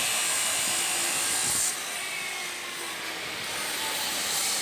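A power tool running steadily with a noisy, rasping hiss. Under two seconds in its sharpest high hiss falls away and it goes on a little quieter.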